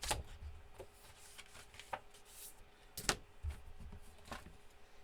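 Card stock being cut and handled on a paper trimmer: a handful of sharp clicks about a second apart, with light paper rustling between them.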